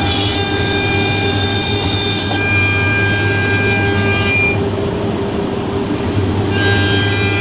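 Spindle of a CNC router running with a steady high whine over a low hum and a hiss of machining noise; its upper overtones drop away for about two seconds midway, then come back.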